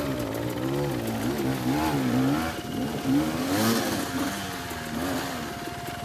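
Dirt bike engine revving up and down repeatedly as the throttle is worked on a rocky climb, with a steady thin tone coming in about halfway through.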